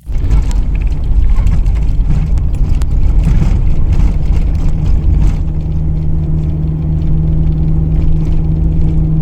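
A motor vehicle's engine and driving rumble, loud and low, with a steady engine hum rising out of it about four and a half seconds in.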